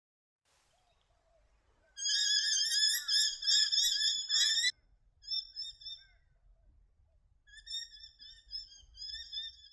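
Birdsong: a loud, dense warbling twitter starting about two seconds in and stopping sharply near five seconds, followed by softer, broken chirping phrases.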